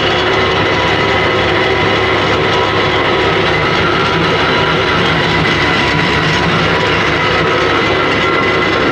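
Isuzu Elf truck's drivetrain running in gear with the rear wheels jacked up: the diesel engine, propeller shaft and differential spin with a loud, steady mechanical drone and whine that starts abruptly. The noise comes from inside the differential carrier, which the mechanic takes for a worn bearing, the pilot or ring gear bearing.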